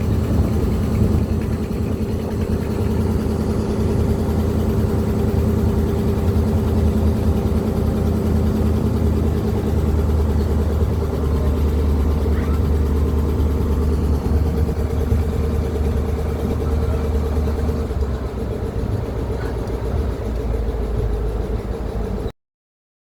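A motor vehicle's engine running steadily while travelling. It eases off slightly about 18 seconds in, then cuts off suddenly near the end.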